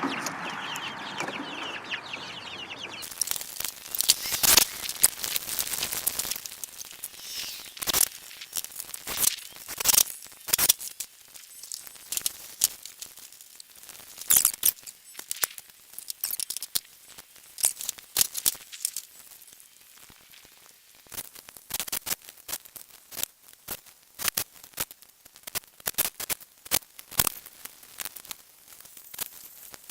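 Chickens clucking, with many irregular sharp clicks and knocks from about three seconds in.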